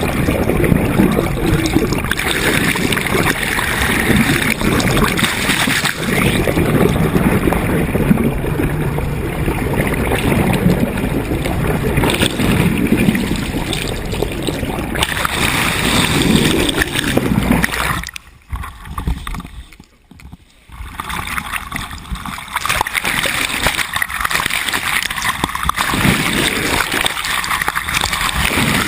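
Water rushing and splashing along a moving sailboat's hull, with wind buffeting the microphone. The noise drops away sharply for about two seconds about two-thirds of the way through, then returns.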